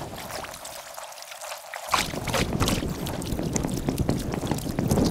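Kayak paddle strokes splashing and dripping in river water, sped up in a time lapse, as many quick splashes. Just under two seconds in, a low rumble of wind on the microphone comes in underneath.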